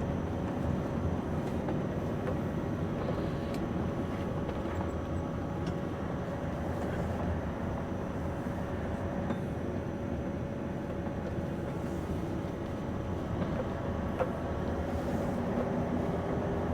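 Scania V8 truck running steadily along the road, its engine and road noise heard from inside the cab, with a couple of faint clicks.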